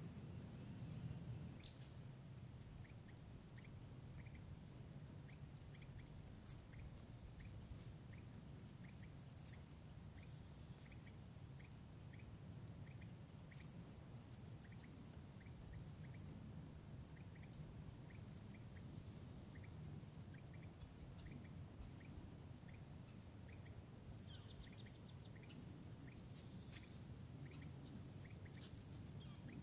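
Small birds calling in the woods: a steady run of short chip notes, a little over one a second, with scattered high, thin calls, over a faint low rumble.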